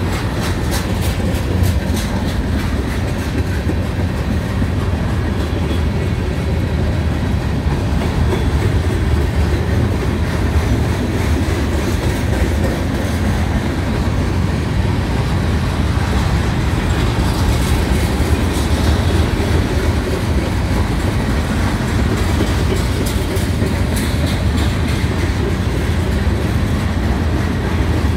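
Loaded freight cars of a trash train rolling past: a steady low rumble of steel wheels on rail, with repeated clicking and clacking from the wheels.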